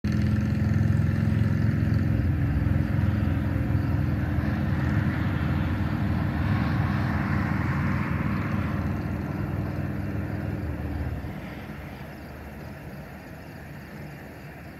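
A motor vehicle's engine running close by with a low, steady hum. It drops away about eleven seconds in.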